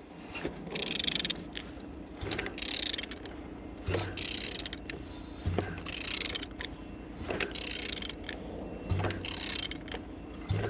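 A Volvo B5244S4 five-cylinder petrol engine's crankshaft turned over by hand with a ratchet wrench, in repeated strokes about once a second, the ratchet clicking with dull knocks between strokes. The engine turns freely, a sign that it is not seized.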